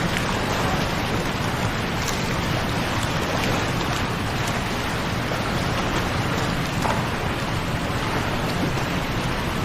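Waterfall: falling water rushing in a steady, unbroken roar of noise.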